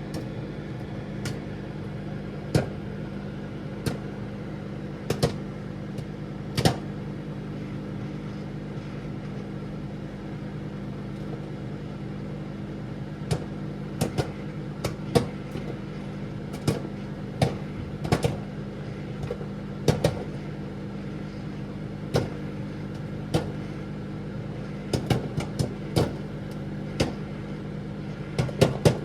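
Microwave oven running with a steady hum while popcorn kernels pop inside, in sharp single pops: only a few at first, coming more often from about halfway through.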